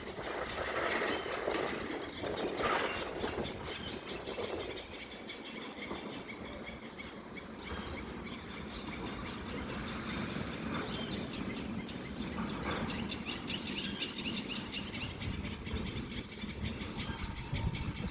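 Birds chirping again and again over a steady rushing outdoor background.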